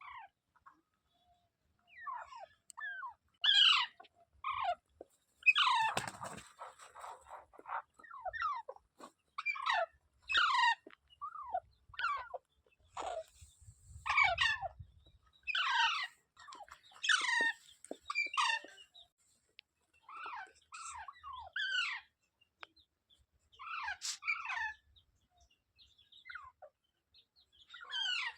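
Pet rose-ringed (Indian ringneck) parakeet calling: a run of short calls, each sliding down in pitch, repeated about once a second.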